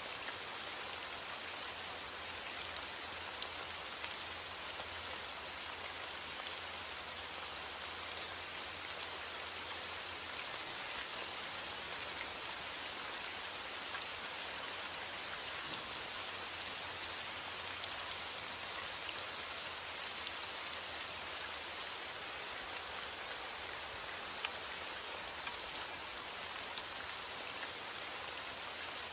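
Steady heavy rain: a dense, even hiss of rainfall with countless fine drop ticks on a surface and a low steady rumble underneath.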